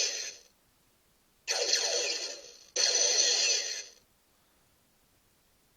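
Electronic sound effects from a lights-and-sounds U.S.S. Enterprise toy: three short noisy blasts of about a second each, the first ending just after the start and the other two following close together, then quiet.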